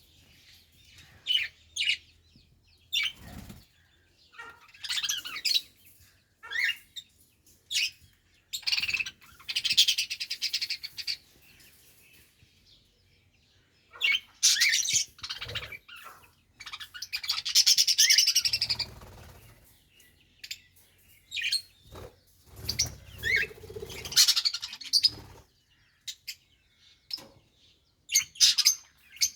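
Budgerigars chirping and warbling in short bursts with pauses between, some calls high and rapid, with a few soft wing flaps or cage bumps.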